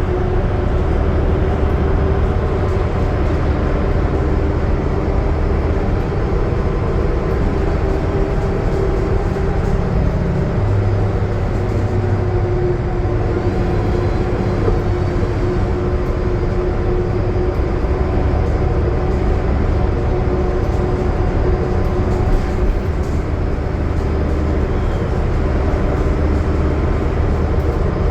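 A 2020 Gillig Low Floor 40-foot transit bus cruising on the highway, its Cummins ISL9 diesel running steadily as an even, constant drone with a steady hum.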